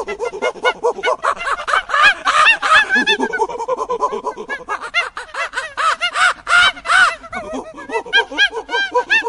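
Gorilla vocalising: a rapid, continuous string of short hooting and screeching calls, each rising and falling in pitch, many overlapping.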